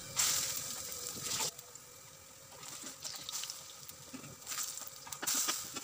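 Mushroom-and-potato kebab patties shallow-frying in oil in a nonstick pan: the oil sizzles, strongest in a hissing burst just after the start and again near the end, with light crackles and ticks between.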